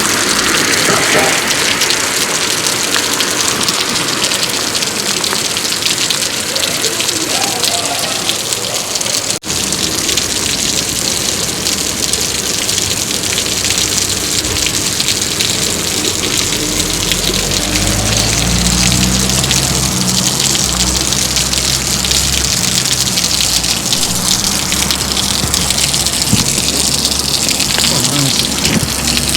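Heavy rain falling steadily and splashing on wet pavement, with running water. A low rumble rises under it about halfway through and fades a few seconds later.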